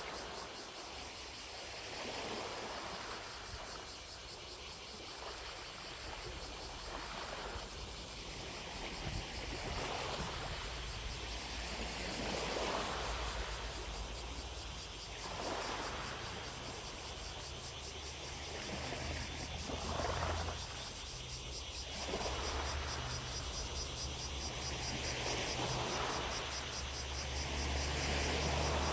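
Small lake waves lapping against the shore every couple of seconds, with a steady buzzing chorus of distant cicadas above them. A low engine hum comes in underneath and grows in the second half.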